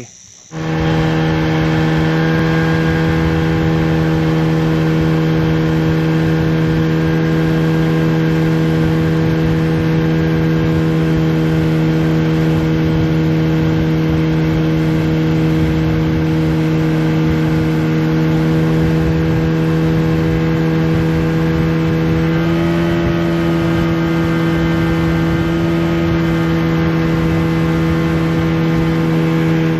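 Outboard motor of a small aluminium boat running steadily under way at cruising speed, with a steady drone. Its pitch steps up slightly about two-thirds of the way through as the throttle is opened a little.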